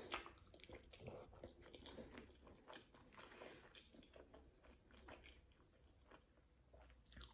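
A person chewing a mouthful of pap (stiff maize porridge) with chakalaka: faint, irregular mouth clicks, the loudest at the first bite.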